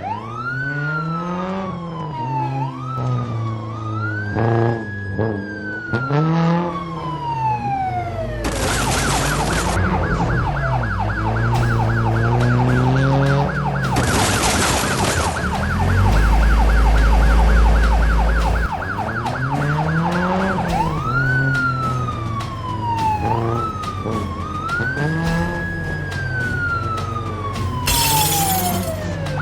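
Cartoon police car siren. Its wail rises steeply and falls slowly, over and over, then switches to a fast warbling yelp for about twelve seconds before going back to the rising-and-falling wail. Short hissing bursts and a deep rumble in the middle come in over it.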